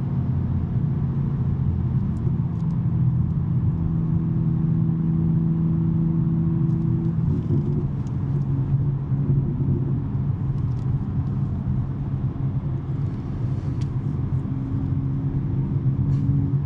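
2023 BMW M3 G80 twin-turbo inline-six with a non-resonated J-pipe exhaust, cruising steadily on the freeway: a continuous low exhaust drone over road noise. The drone's pitch shifts a little about seven seconds in.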